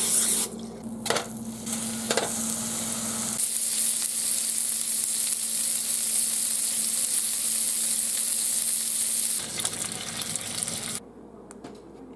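Ground beef burger patties sizzling in a hot frying pan, with a few clicks in the first couple of seconds; the sizzle cuts off suddenly about eleven seconds in.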